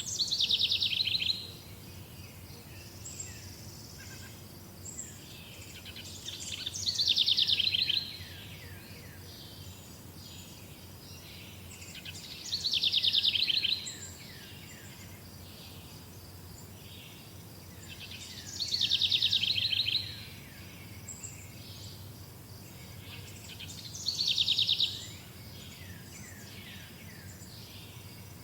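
A songbird repeating the same short song five times, about every six seconds, each song a fast run of notes falling in pitch and lasting over a second. A steady high insect drone runs underneath, with a few faint chirps between the songs.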